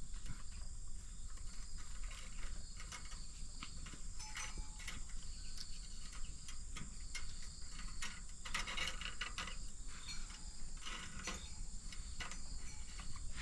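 A steady high insect drone, with irregular clicks and rustling scrapes over it that come thickest about two-thirds of the way in.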